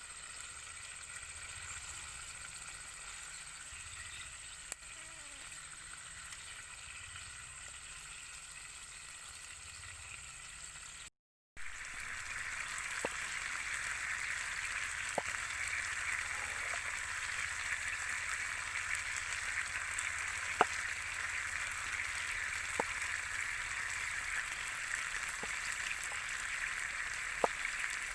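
Beef steak sizzling as it fries: a steady hiss with occasional sharp pops of spitting fat. The sizzle breaks off for a moment about eleven seconds in and comes back louder, with a handful of pops through the rest.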